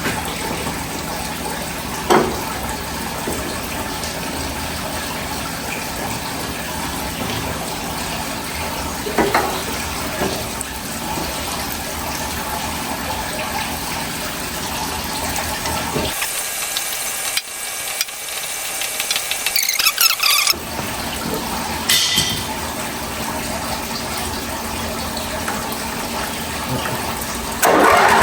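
Hotsy pressure washer running steadily, its engine and pump going with water rushing through, broken by a few brief knocks. For a few seconds past the middle the low engine sound drops away, leaving a thinner hiss.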